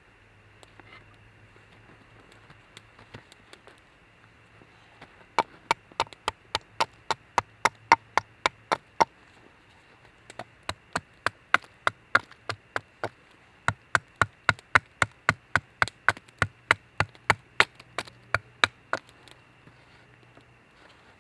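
Wood being chopped: three runs of quick, even blows, about three a second, with short pauses between them.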